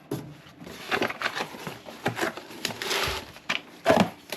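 Tools and parts being handled in a garage: irregular clicks and knocks, a brief scraping noise a little before the end, then one sharp knock near the end.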